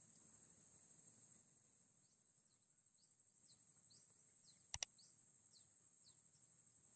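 Near silence: faint rural ambience with a steady high-pitched insect drone and a few faint, short falling chirps. A quick double click sounds a little after halfway.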